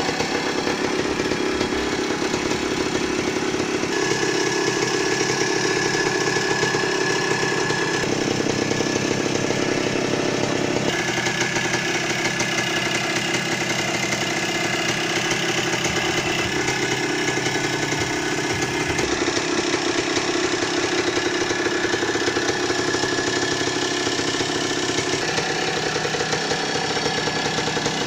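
Motocross dirt bike engines running. The sound is loud and steady, and it shifts abruptly several times.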